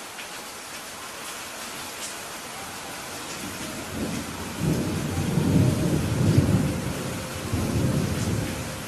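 Steady rain hissing, with a low rolling rumble of thunder that builds about three and a half seconds in, is loudest around the middle and fades away near the end.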